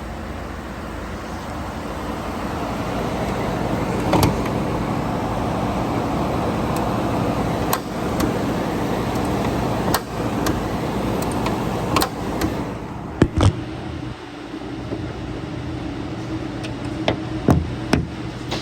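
2012 Ford F-150's 5.0L V8 running steadily, with a hum that builds over the first few seconds. Scattered sharp clicks and knocks come through it, the loudest a close pair about two-thirds of the way through.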